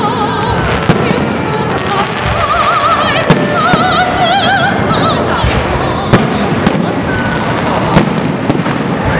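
Aerial fireworks shells bursting in a festive salute: a string of sharp bangs, the loudest about three seconds in and again near the end, over steady crackling from the stars. A singing voice with strong vibrato carries along with them.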